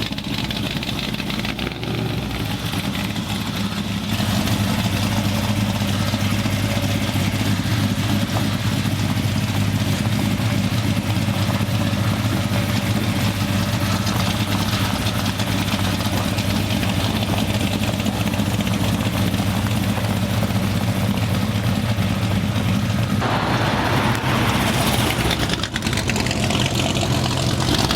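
Cammed small-block Chevy V8 running through 2.5-inch dual cherry bomb glass-pack mufflers with turn-downs, a steady deep exhaust note that gets louder about four seconds in.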